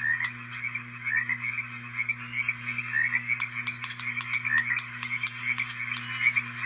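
Portable baby sound machine's speaker playing a recorded nature track of frogs croaking at full volume: short rising chirps about once a second, many sharp clicks, and a steady low hum underneath.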